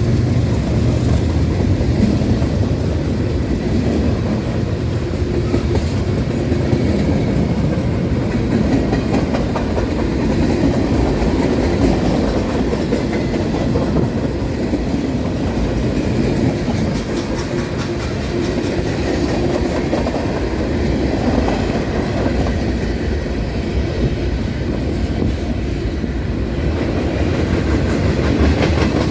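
Railroad cars rolling past at close range, a steady rumble with the clickety-clack of wheels over the rail joints.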